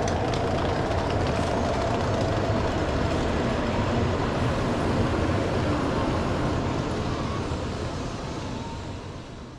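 Steady rumble and rush of a train at a station platform, fading out over the last couple of seconds.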